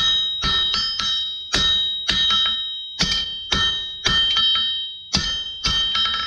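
Hand hammer striking hot steel on an anvil while forging tongs, about two blows a second in an uneven rhythm, each blow leaving a high bell-like anvil ring that dies away before the next.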